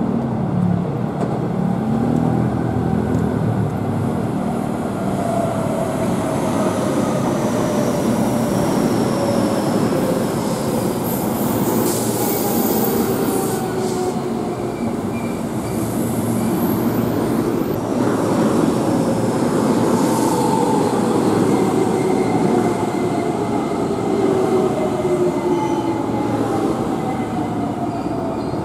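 Electric commuter train running past and slowing into a station: a steady rumble of wheels on rail, with the motors' whine gliding down in pitch several times as it slows. A brief very high squeal comes about twelve seconds in.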